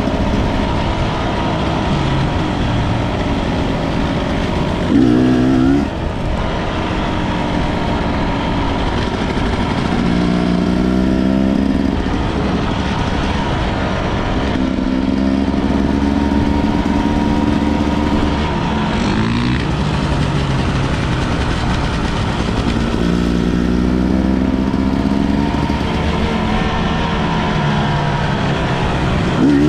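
Enduro motorcycle engine running under way, its pitch stepping up and down with throttle and gear changes every few seconds. There are brief sharp revs about five seconds in and again near the end.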